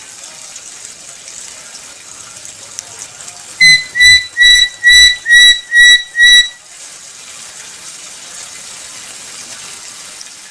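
Black-capped lory giving a run of seven loud, evenly spaced whistled notes, each dipping slightly in pitch, about a third of the way in. A steady rushing background noise runs underneath.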